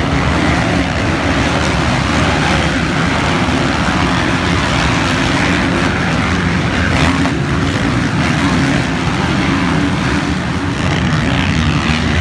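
Motocross bike engines running at racing speed, a loud steady mechanical sound without a break.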